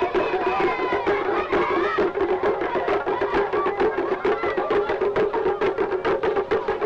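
Muria tribal dance music: a fast, even beat of sharp percussion strikes over a steady droning tone, with voices singing in the first two seconds.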